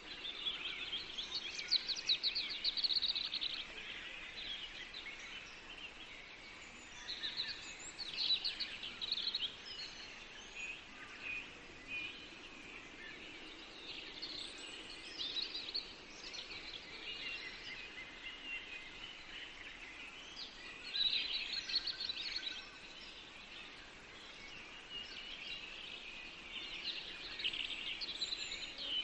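Forest songbirds singing, with trilled and chirping phrases every few seconds over a faint steady background hiss.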